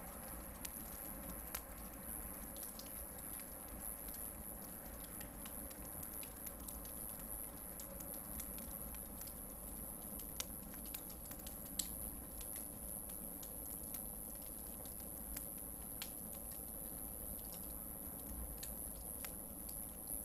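Hardwood campfire burning, with scattered small crackles and pops and two sharper pops about ten and twelve seconds in, over a thin steady high-pitched tone.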